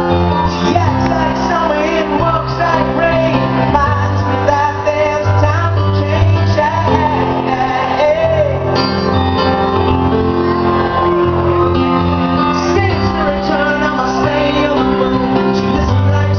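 Live rock band playing a song, a lead vocal singing a wavering melody over guitar and steady bass notes that change every second or two.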